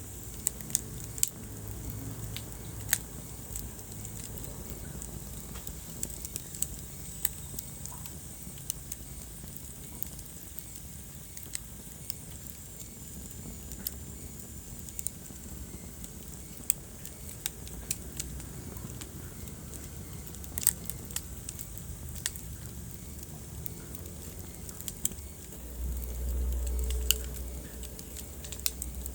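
Wood fire burning in a fireplace, crackling with irregular sharp pops over a steady low rumble. A louder low rumble swells for a couple of seconds near the end.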